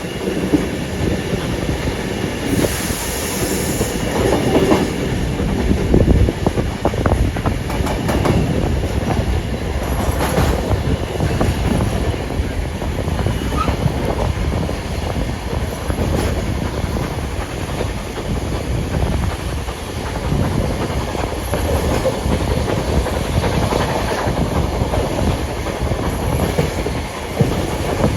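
Passenger train running along the track, steady rolling noise with the wheels clicking and knocking over the rail joints. A brief high hiss sounds about three seconds in.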